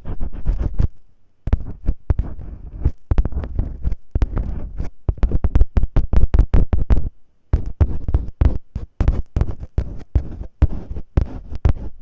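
Masking tape rubbed, pressed and crinkled close against the microphone to imitate ear cleaning: dense crackling and scratching with low thuds, pausing briefly twice.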